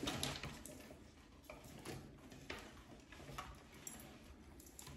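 Faint, scattered light clicks and taps of takeout food containers and dishes being handled while chicken is served out.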